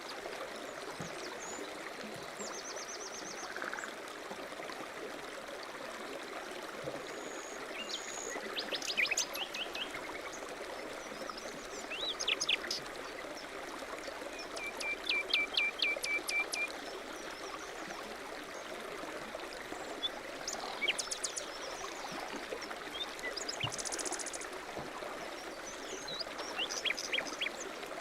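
A stream running steadily, with small birds calling over it now and then: short chirps and whistles, and a quick trill of about ten notes around the middle.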